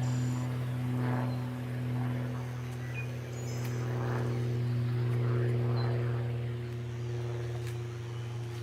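An engine running with a steady low drone, with faint chirps above it.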